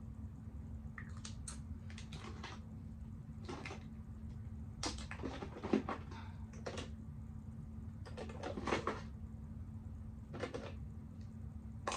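Small plastic cosmetics (lipstick tubes and other makeup containers) clicking and clattering against each other as they are rummaged through and sorted in a box, in irregular bursts with a couple of louder rattles about midway and again a few seconds later, over a steady low hum.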